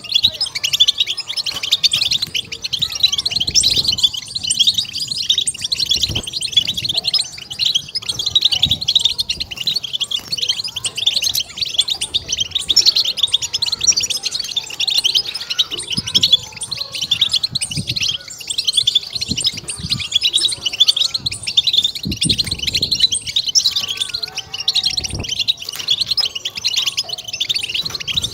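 European goldfinch song: a dense, unbroken stream of fast, high twittering chirps, the rapid chattering 'batbata' phrase that keepers play to excite and stimulate goldfinches.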